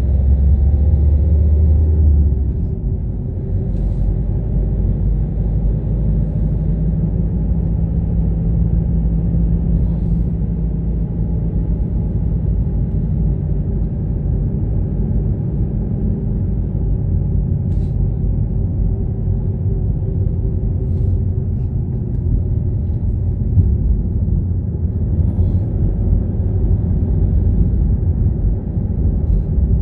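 Car driving: a steady low engine and road rumble, with a stronger low hum for the first two seconds that then drops back.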